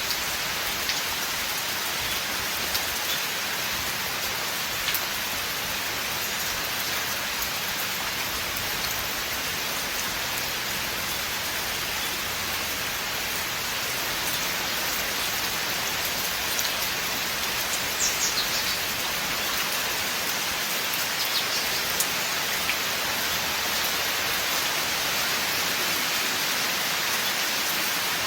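Steady rain falling in a forest, an even hiss with scattered sharper drop ticks.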